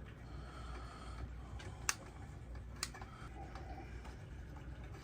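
A few faint, sharp clicks from small parts being handled during electrical wiring work, over a low steady hum.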